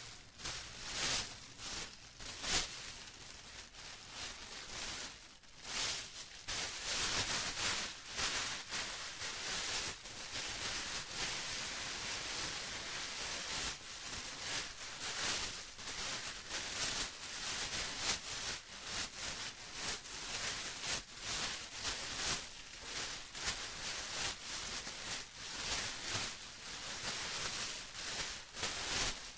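Plastic being crumpled and rustled, a steady irregular crackling that rises and falls.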